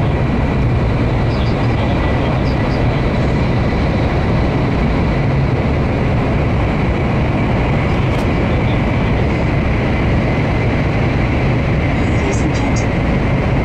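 Cabin noise of an N700 series Shinkansen running through a tunnel: a steady loud rumble with a faint high whine over it, and a few light ticks near the end.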